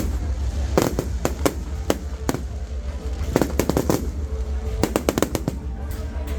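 Firecrackers and fireworks going off in irregular clusters of sharp bangs, several close together at times, over a steady low rumble.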